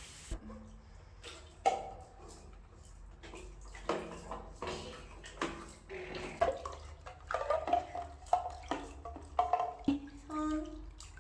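Bath water splashing while a baby babbles now and then.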